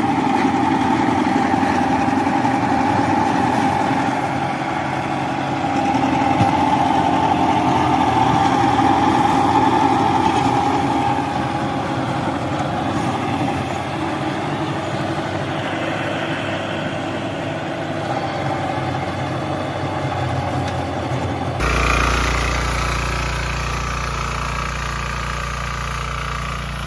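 Engine of a two-wheel walking tractor running steadily. A little past twenty seconds in, the sound switches abruptly to another engine running, with more low rumble.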